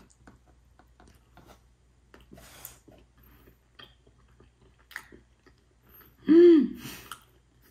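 Close-up chewing of a soft green-tea cream doughnut, with faint wet mouth clicks and smacks. About six seconds in comes one short hummed 'mm' from the eater, louder than the chewing.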